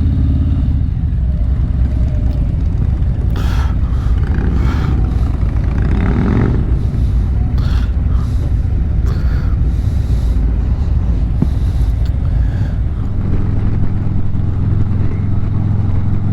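Harley-Davidson V-twin motorcycle engine running at low speed, with short scraping and knocking noises in the middle. About three-quarters of the way through, the engine note turns steadier.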